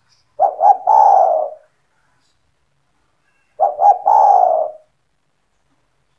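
Spotted dove (tekukur) cooing: two coo phrases about three seconds apart, each two short notes followed by a longer drawn-out note.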